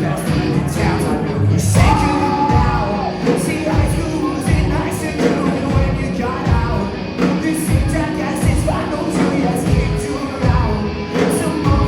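Live rock band playing, with a singer over electric guitars, bass and drums; the kick drum thumps on a steady beat and cymbals crash throughout.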